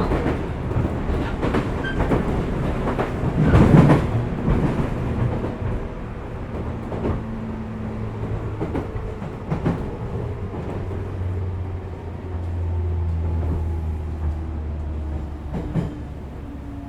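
Running sound of a 415 series electric multiple unit heard inside the motor car MoHa 414-1501, under the pantograph. There is a steady low hum of the traction gear, and the wheels click over rail joints. A louder rattle comes about four seconds in, and the low hum grows stronger for a few seconds in the second half.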